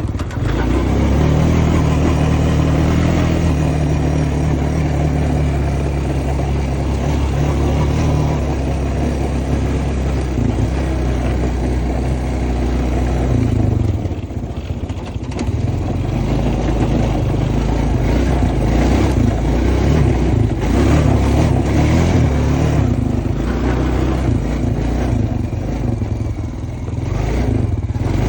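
Honda Foreman ES ATV's single-cylinder engine running under throttle while riding a bumpy trail. The throttle eases off about halfway through, then the engine pulls again.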